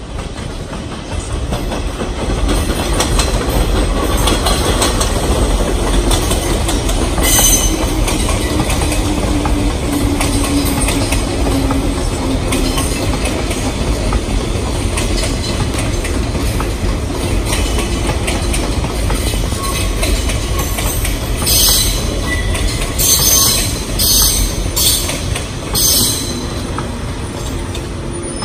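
Electric passenger train, a 185-series multiple unit, rolling into a station and slowing, with a steady low rumble of wheels on rail. A motor whine falls in pitch as it slows, and several short, sharp screeches from the wheels and brakes come near the end.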